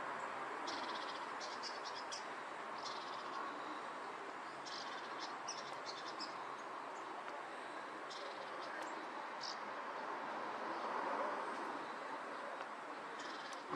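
Small birds chirping in short, rapid high trills, several times and at irregular gaps, over a steady rushing outdoor background.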